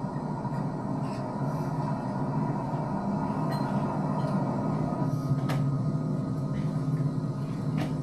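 A drilling machine running with a steady, even drone, with a few sharp clicks about five and a half seconds in and near the end.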